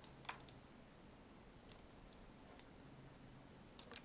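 Near silence broken by about half a dozen faint, scattered clicks from a computer keyboard and mouse.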